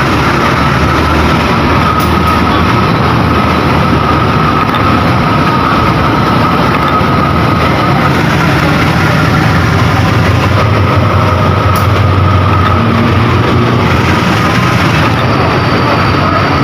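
Train running through the station: a loud, steady rumble of rolling stock on the rails, its low hum swelling in the middle.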